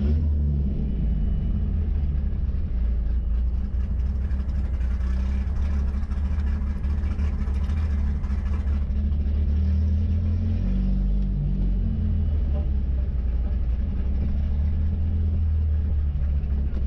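Ford 2.3-litre turbocharged four-cylinder engine in a 1963 Volvo Amazon running steadily at low revs, with no hard revving.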